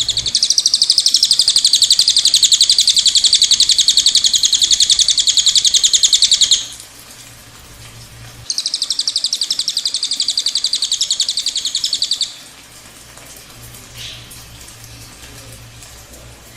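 Cililin songbird singing its long rolling trill: a rapid, high, even run of notes lasting about six and a half seconds, then, after a pause of about two seconds, a second trill of nearly four seconds. Near the end there is only a faint low hum.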